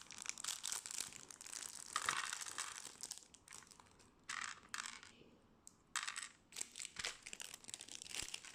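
Plastic packaging crinkling and crackling as it is torn open and handled, with small plastic parts clicking and rattling. The crinkling is denser in the first half, then comes as separate crackles and clicks.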